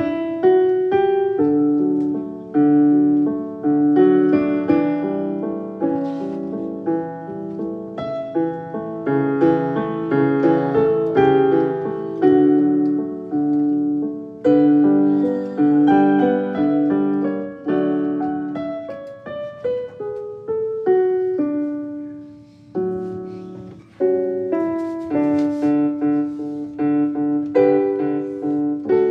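Background piano music: solo piano notes and chords struck and decaying, with a brief dip in loudness near the three-quarter mark.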